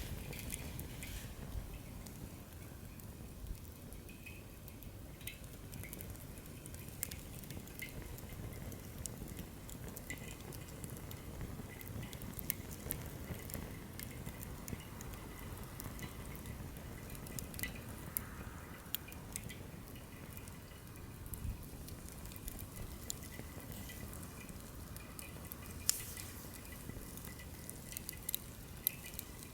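Wood campfire burning: a low steady rush of flames with scattered sharp crackles and pops from the burning firewood, a louder pop near the end.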